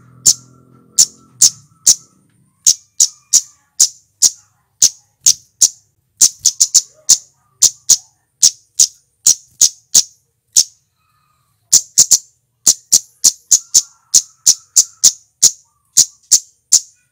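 Male flowerpecker (cit keres, cabe-cabean) calling a rapid series of short, sharp, high-pitched 'tsit' notes, about two to three a second, some in quick pairs, with a brief pause partway through.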